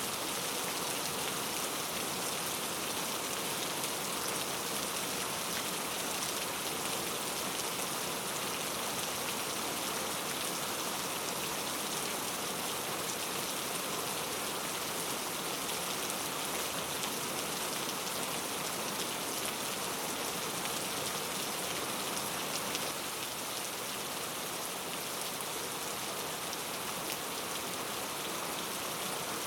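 Steady rain falling on a rainforest canopy, an even hiss of many raindrops with fine patter, easing slightly near the end.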